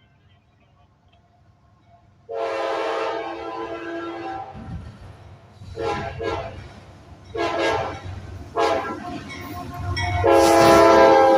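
A CSX freight locomotive's air horn sounding a chord: one long blast about two seconds in, then three short blasts, then another long blast near the end, over the low rumble of the approaching train.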